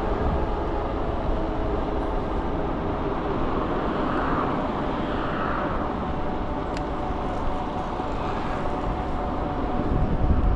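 Electric scooter riding along: wind rushing over the microphone with road and tyre noise and a faint steady whine, and a single short click about two-thirds of the way through.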